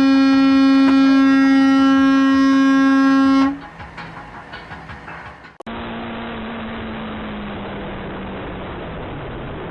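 A loud, steady horn blast on one pitch, held for about three and a half seconds and then stopping abruptly. After a quieter stretch with light ticks, there is the steady running noise of a car on the road.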